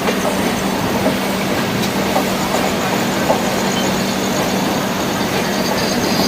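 Indian Railways express train running, heard from on board: a steady rumble and rattle with a constant low hum and scattered small clicks.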